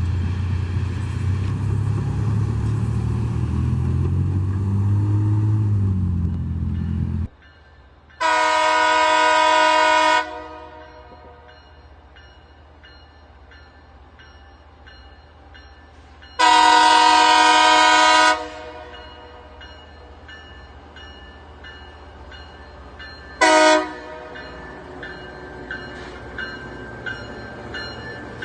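A train rumbles close by, then cuts off abruptly about seven seconds in. After that a locomotive's chime air horn sounds two long blasts and one short one, the long-long-short opening of a grade-crossing signal. Faint clicks follow near the end.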